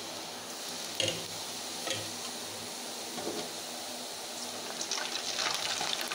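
Boondi drops frying in hot oil in a steel kadai, a steady sizzle. There are light knocks about one and two seconds in, and the sizzle grows louder near the end as a ladle stirs the boondi.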